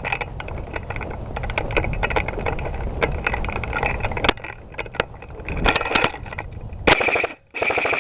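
Airsoft guns firing: scattered sharp shots over rustling movement, then two short bursts of automatic fire close to the end.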